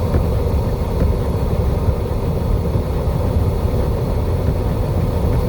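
A vehicle's engine running steadily, a continuous low rumble.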